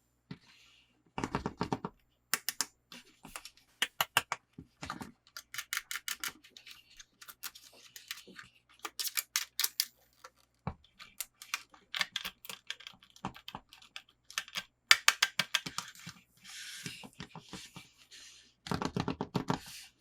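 Toys and their packaging being handled and unpacked: an irregular run of small clicks, taps and rustles in quick clusters, louder about a second in, around fifteen seconds and near the end.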